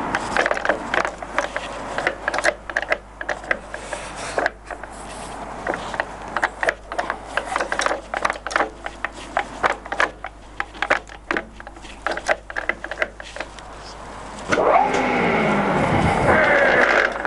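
Stankoimport 16K20 centre lathe running at low spindle speed, its headstock gearing giving a busy train of irregular clicks and clunks while the speed levers are shifted. Near the end a louder, steadier run comes in with a pitch that falls.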